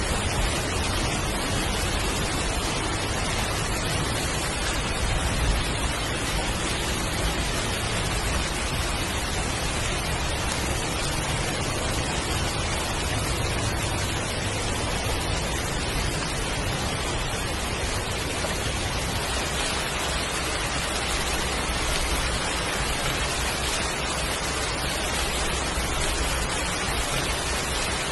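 Heavy rain falling, a steady dense hiss with a low rumble beneath it.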